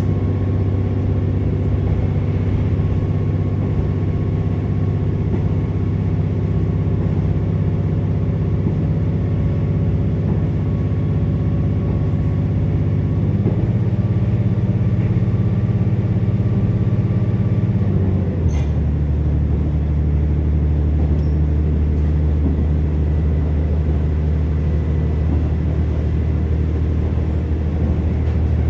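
Kiha 47 diesel railcar running, heard from inside the car: a steady diesel engine hum under the running noise. The engine note steps up about halfway through, then drops lower a few seconds later, with a faint click as it changes.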